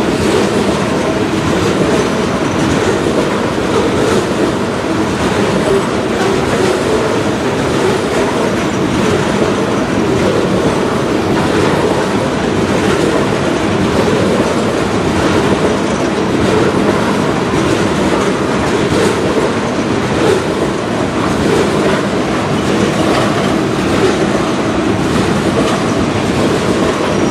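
A long string of railroad tank cars rolling past close by: the steady, loud rumble of steel wheels on rail, with wheels clicking over the rail joints.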